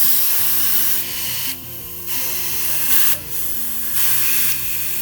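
Compressed air hissing from an air chuck into a Honda 50 dirt bike tire's valve stem as the new tube is inflated to test that it holds air, with two short breaks in the flow.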